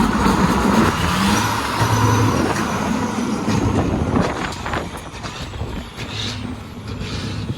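Heavy diesel truck running, with a loud air hiss over the first few seconds that fades about four seconds in, followed by a few sharp clicks.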